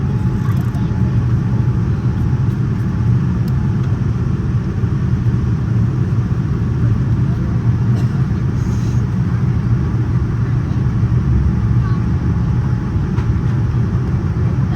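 Steady low rumble inside the cabin of a Boeing 787-9 airliner: airflow and engine noise.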